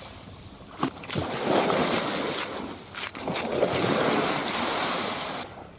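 Wagyu sirloin steak sizzling over a charcoal fire, with a few sharp crackles. The sizzle swells up twice, each surge lasting about two seconds.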